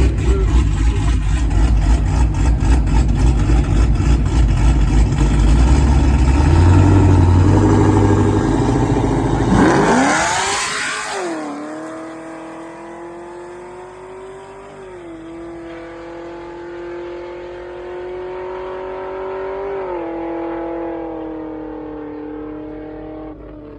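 V8 engines at full throttle in a drag race, loud and deep for about ten seconds with the pitch climbing. Around ten seconds in there is a sharp rise and fall in pitch, after which the engine note grows fainter as it pulls away, stepping up through gear changes twice.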